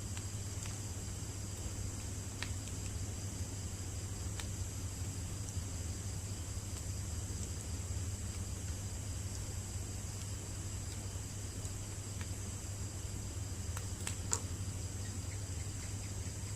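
Wood bonfire burning with a few sharp crackling pops, the loudest about fourteen seconds in, over a steady high-pitched insect drone of night crickets.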